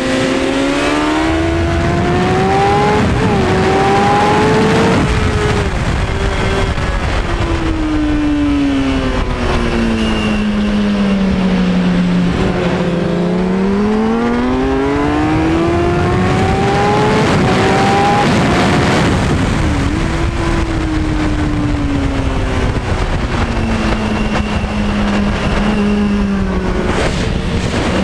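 2003 Kawasaki Ninja ZX-6R 636's inline-four engine at full racing pace, its note rising hard with quick upshifts, then winding down as it slows for corners, twice over, under heavy wind rush.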